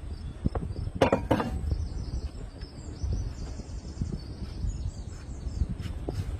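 Outdoor ambience with light high chirping and a steady low rumble, broken by a short clatter of knocks about a second in.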